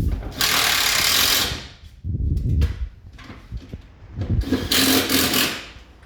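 Power drill-driver run in two short bursts of about a second each, with knocks of handling between them, as screws are driven while an air-conditioner unit is put back together.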